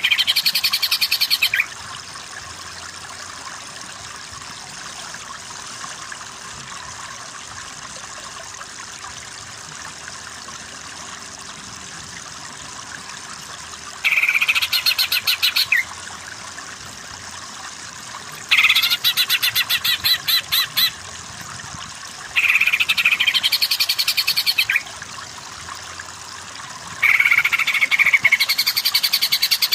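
Cucak ijo (green leafbird) singing in five bouts of rapid, chattering song, each lasting about two to three seconds. The bouts come at the start, around the middle and near the end. Under the song runs a steady, even background hiss.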